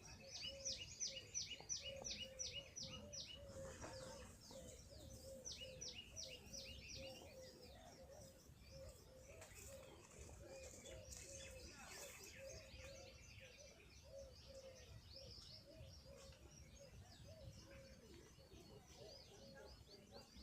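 Small birds chirping in two fast series of high, falling chirps, about six a second, near the start and again a few seconds later. Under them a low short note repeats about twice a second throughout.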